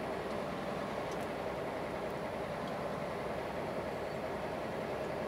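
Scania truck running steadily on the road, a constant engine drone and road noise heard from inside the cab.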